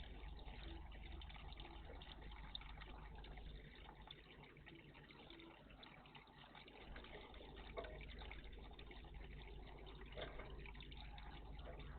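Faint, continuous splashing and trickling of water in a garden bird bath, with small irregular drips and splashes.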